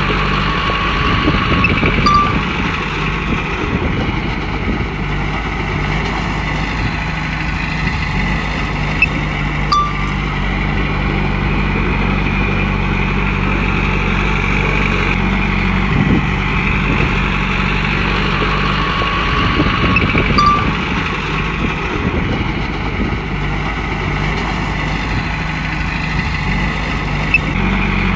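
Komatsu bulldozer's diesel engine running under load, its pitch and loudness swelling and easing slowly as it pushes, with a few brief high squeaks and clicks from the machine.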